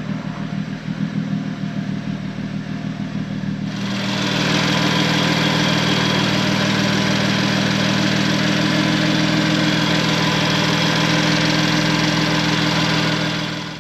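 BMW F80 M3's twin-turbo straight-six with M Performance exhaust running steadily, first at idle. About four seconds in it jumps to a louder, steady drone of engine, exhaust and road noise, as when holding a constant speed.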